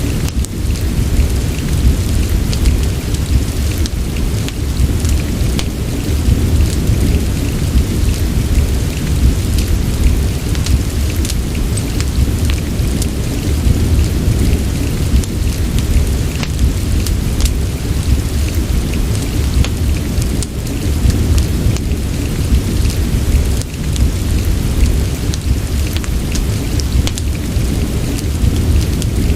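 Steady soft rain mixed with a fireplace: a constant deep low rumble under an even hiss, with scattered small ticks and pops throughout.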